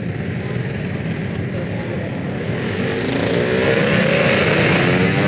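Street traffic: motor vehicles running past in a continuous rumble. An engine passes close and grows louder from about three seconds in.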